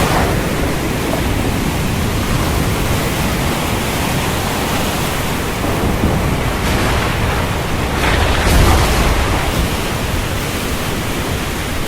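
Storm wind and ocean surf making a steady, loud rush, with a swell about eight seconds in as a wave or gust surges.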